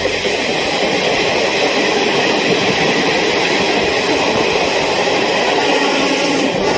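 A train running along the track: a steady rush and rumble of wheels and carriages at an even level, which cuts off abruptly at the end.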